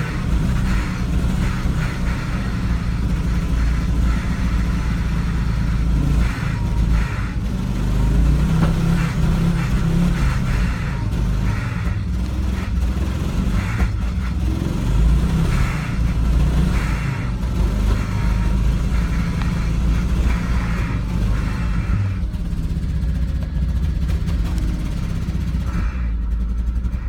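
Volvo V70 XC five-cylinder engine running with a low, steady rumble broken by irregular, uneven pulses, the sound of an engine with a misfire.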